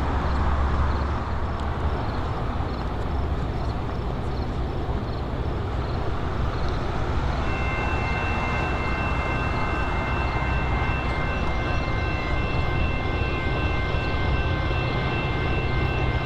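Railway noise: a steady low rumble, with a faint regular ringing throughout and a set of steady high tones joining about halfway in.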